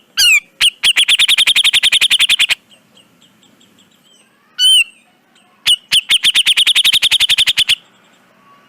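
Cucak jenggot (grey-cheeked bulbul) singing: a short arched whistled note, then a fast rattling trill of about a dozen notes a second lasting over a second. It repeats after another single note about halfway through, with a second trill of about two seconds.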